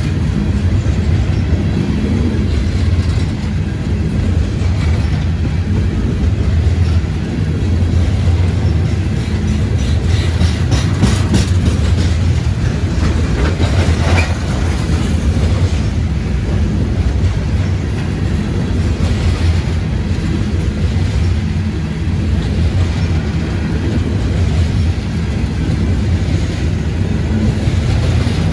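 CSX freight train's cars rolling past with a steady heavy rumble and the clickety-clack of wheels over rail joints. A quick run of sharp clicks comes about ten to twelve seconds in.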